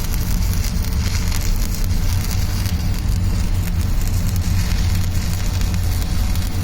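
Electric arc welding on steel plate: a continuous sputtering crackle from the arc over the steady electrical hum of the welding machine.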